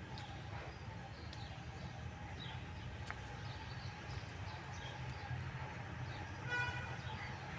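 Outdoor ambience: scattered short bird chirps over a steady low rumble, with a brief buzzy call about six and a half seconds in, the loudest sound.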